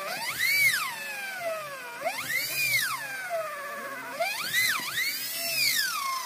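High-pitched whine of a small power tool, its pitch rising and falling in about three broad sweeps as its speed changes.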